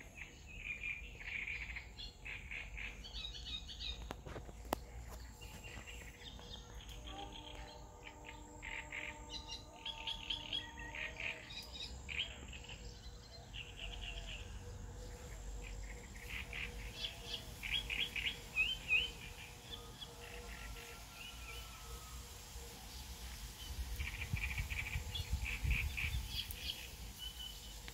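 Birds chirping in short, high, repeated bursts, on and off throughout.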